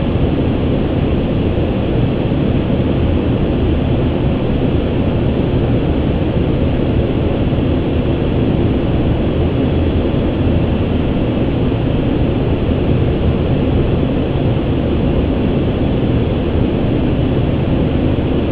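Steady rushing flight-deck noise of an Airbus A350 on final approach: airflow and engine noise heard inside the cockpit, even and unbroken.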